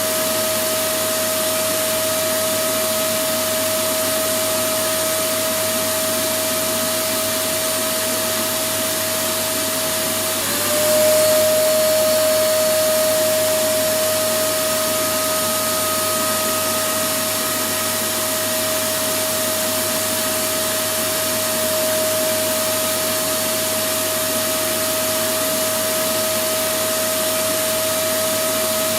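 Electric vacuum cleaner running steadily, a dense rushing noise with a constant motor whine. About ten seconds in, the whine dips briefly and shifts slightly in pitch, and the sound gets a little louder for a couple of seconds before settling.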